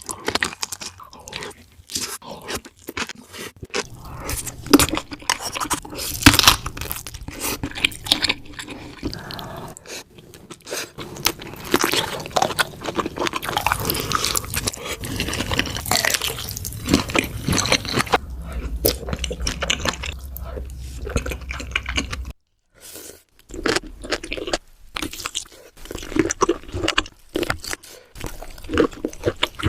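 Close-miked mukbang eating of kimchi fried rice and kielbasa sausage: a steady run of crisp crunching bites and wet chewing, broken by a brief silence about two-thirds of the way through.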